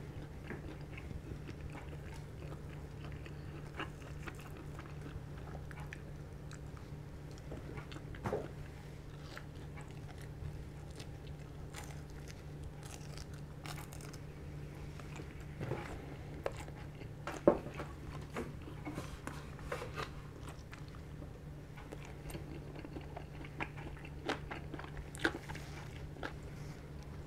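Close-miked chewing and biting of crispy fried chicken, with scattered small crunches and mouth clicks and one sharper click a little past the middle, over a steady low hum.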